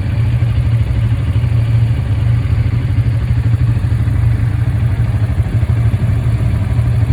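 Quad bike engine running steadily while riding, a loud, even low drone.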